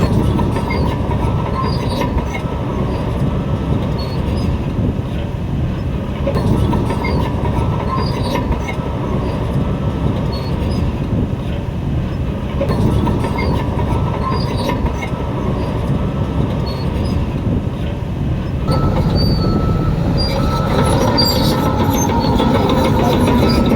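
Shantui DH17 crawler bulldozer working, its diesel engine running under steel tracks that clank and squeal, with a steady whine throughout.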